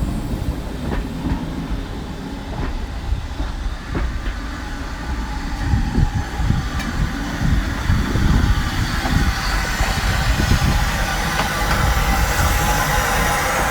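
Train running along the track: a steady low rumble with wheels clicking over the rail joints, growing louder about halfway through.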